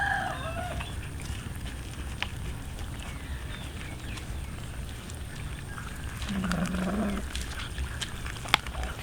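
Animal calls over steady low outdoor background noise: a short call right at the start, then a low call lasting about a second around six seconds in, and a sharp click shortly before the end.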